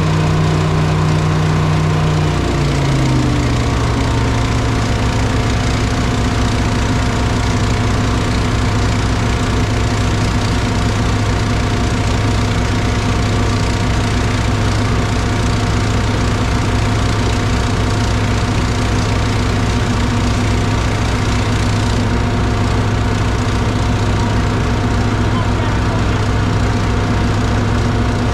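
Engine running, its speed dropping about two seconds in and settling into a steady idle with an even low throb.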